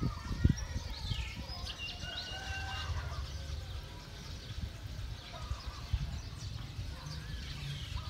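Birds chirping and calling in short whistled notes and quick falling glides, busiest in the first few seconds and again near the end, over a low steady rumble. A single thump sounds about half a second in.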